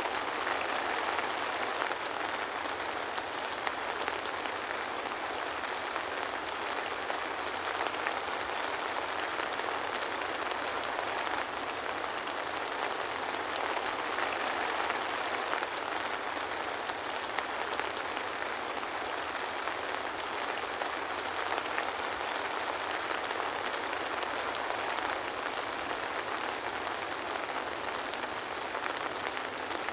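Steady soft rain falling, with no thunder: an even hiss with scattered single drops ticking through it.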